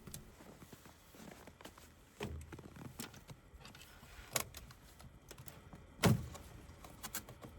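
Scattered clicks and knocks from handling a generator's air filter and its housing, with the loudest knock about six seconds in.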